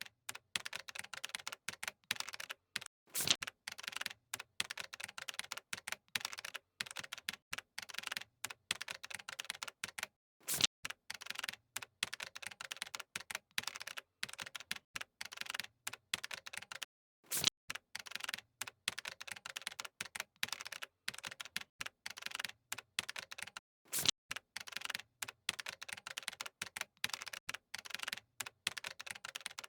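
Keyboard typing: quick, irregular key clicks with short pauses, and a louder clack about every seven seconds.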